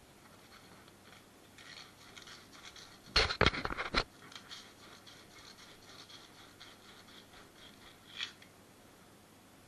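Repeated scratchy scraping strokes of hand work on pipe, broken about three seconds in by a short burst of loud knocks and clatter, with one more sharp click near the end.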